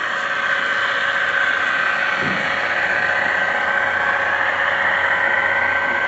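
Model train's engine sound running steadily, a constant hum with a high whine.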